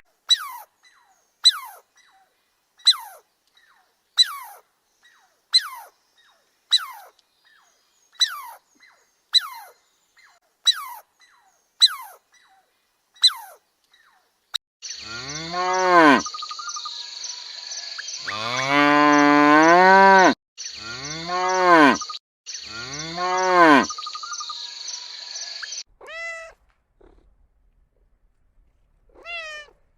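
Animal calls: a run of about ten short calls falling in pitch, one every second and a half or so, then four long, deep calls that rise and fall in pitch, lowing like cattle, over a steady high hiss.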